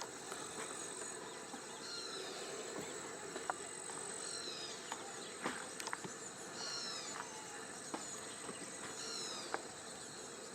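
Outdoor insect chorus, a steady high-pitched buzz, with a bird repeating a short descending call about every two and a half seconds, and a few faint clicks.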